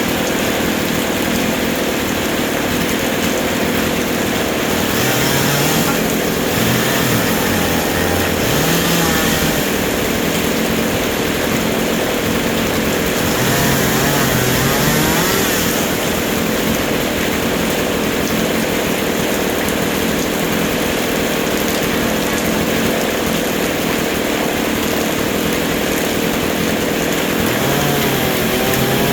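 Chainsaw engine running steadily, its pitch rising and falling a few times as it is revved while cutting.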